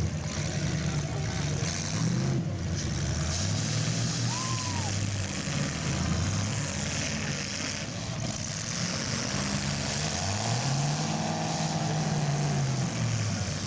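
Demolition derby cars' engines running and revving together, their pitch rising and falling, with one long rev up and back down near the end, over a steady hiss.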